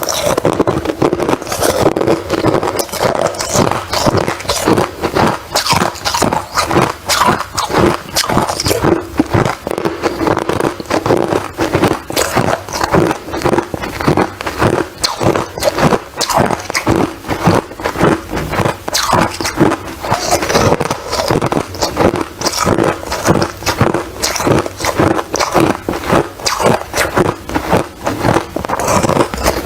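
Ice being crunched and chewed close to the microphone: a rapid, irregular run of loud crunches.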